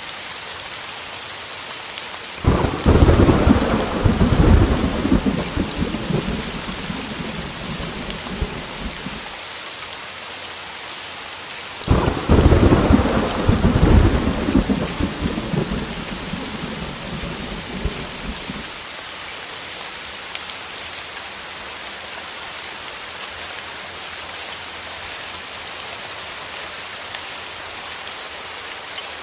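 Heavy rain falling steadily, with two loud peals of thunder. Each breaks suddenly, the first a couple of seconds in and the second about twelve seconds in, and rumbles down over six or seven seconds.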